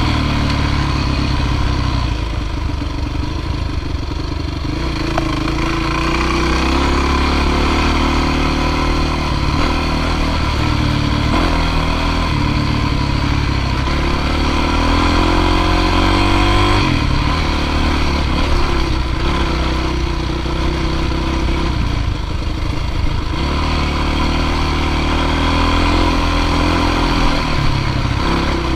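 Dirt bike engine running hard under load, its pitch rising and falling again and again as the throttle opens and closes.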